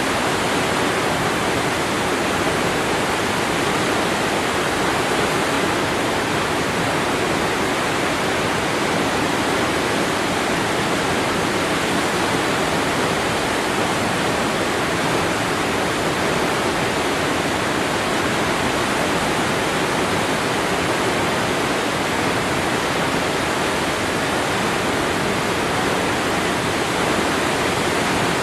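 Waterfall: water falling and splashing in a steady, unbroken rush with no change.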